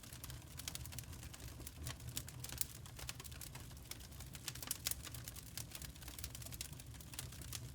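Crackling wood fire: dense, irregular sharp pops and snaps over a steady low rumble.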